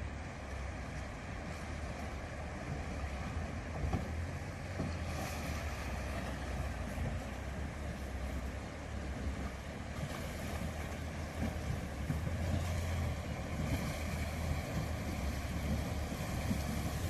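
Vehicle engine running with a steady low hum as it drives through a river crossing, with water splashing and wash around it and wind on the microphone.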